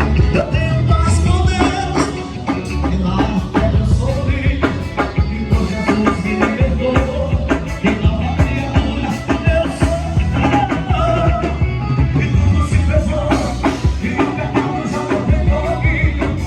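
Live band music with drum kit and a singing voice, played loud through a PA system.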